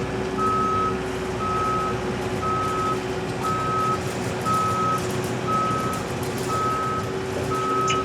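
Backup alarm of a Case TR320 compact track loader beeping steadily about once a second while the machine reverses, over its diesel engine running steadily.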